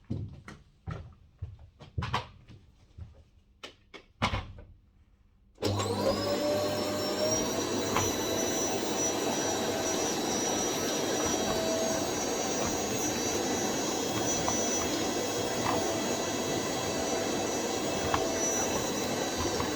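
A few scattered knocks and clicks, then about five and a half seconds in a vacuum cleaner switches on, its motor whine sweeping up quickly and settling into a steady run with a high tone, with a few sharp ticks over it.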